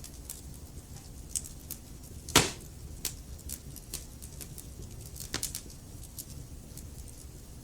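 Wood fire crackling: a steady low rumble of the flames with irregular small crackles, one loud pop about two and a half seconds in and a smaller burst of pops a few seconds later.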